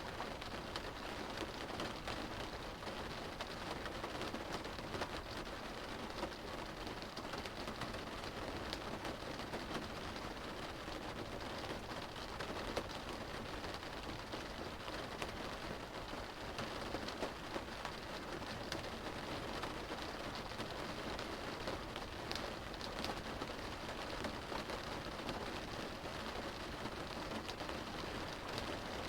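Steady rain on a car's roof and windows, heard from inside the cabin: an even hiss with many small drop taps scattered through it.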